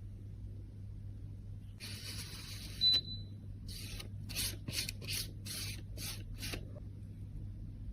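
A tool scraping and rubbing at makeup: one continuous scrape ending in a brief high squeak, then about six short back-and-forth scraping strokes.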